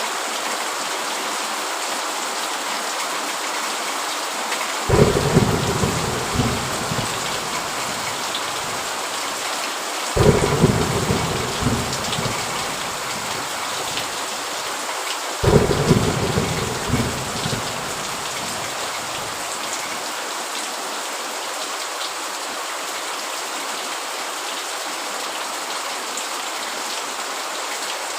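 Heavy rain falling steadily, with three claps of thunder about five seconds apart, each starting suddenly and rumbling away over a few seconds.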